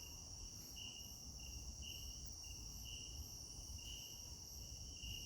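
Night insect chorus of crickets or katydids: a steady high-pitched trill throughout, with short chirps repeating at a lower pitch, faint.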